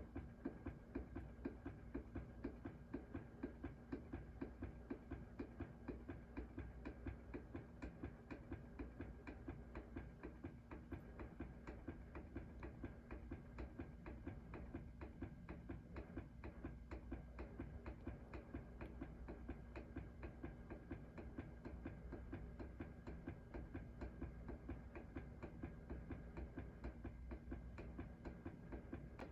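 Aircool industrial ceiling fan running with a steady motor hum and a regular faint ticking a few times a second as it wobbles. It is shaking because one blade is bent upward.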